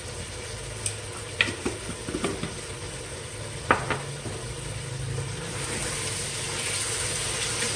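Tomato-onion masala with potatoes sizzling in oil in a pot, being fried until the oil separates. A handful of sharp clicks of a spatula against the pot come in the first four seconds, and the sizzle grows louder and brighter from a little past halfway as the mixture is stirred.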